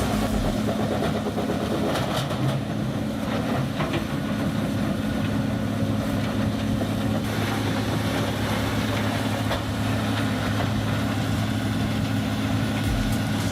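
Bandit Beast 4680 wood grinder's diesel engine running at a steady, even pitch, with a few faint knocks.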